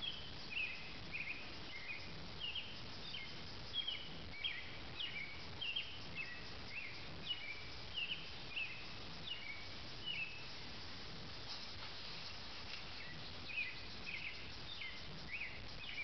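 A small bird chirping over and over outdoors: short, clear notes, one or two a second, with a brief pause about two-thirds of the way through.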